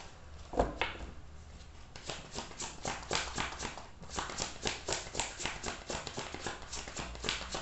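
Tarot cards being shuffled and handled by hand: a single knock about half a second in, then a fast run of papery card taps and flicks, about five a second.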